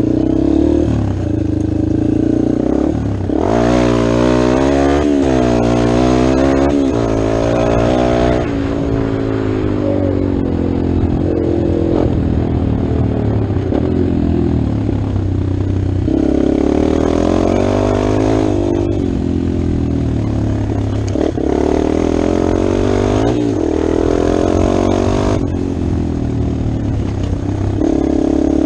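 2019 Yamaha XT250's single-cylinder four-stroke engine running under way, its pitch rising and falling with the throttle and gear changes. The revving is strongest and most changeable from about three to eight seconds in.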